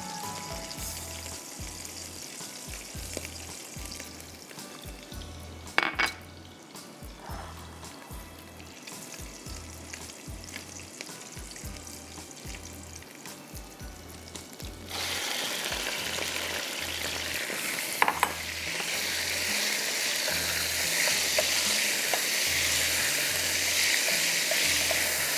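Crushed garlic frying in hot olive oil in a pan: a steady sizzle, with a couple of short knocks of a utensil on the pan. About 15 seconds in, the sizzle jumps suddenly louder and brighter as chicken goes into the hot oil.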